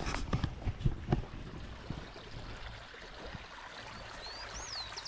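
Outdoor riverbank background of faint running water, with a few knocks in the first second. Near the end a bird sings one whistled phrase that swoops up and back down, then a quick run of short high notes.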